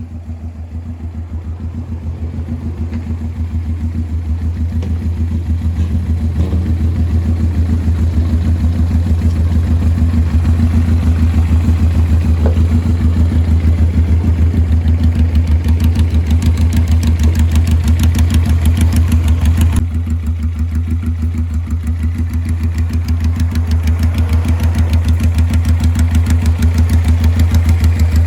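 Suzuki GS400 air-cooled parallel-twin engine idling through straight-pipe exhaust, a steady, even pulse. It grows louder over the first several seconds and dips suddenly about two-thirds of the way through.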